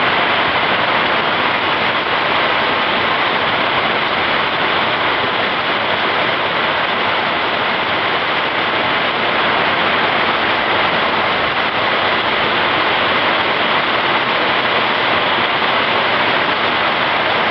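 Very heavy rain pouring down in a whiteout downpour, a loud, steady hiss without let-up.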